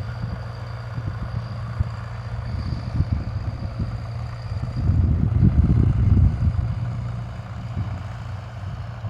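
Fordson Major tractor's engine running steadily while ploughing, growing louder for a second or two about five seconds in.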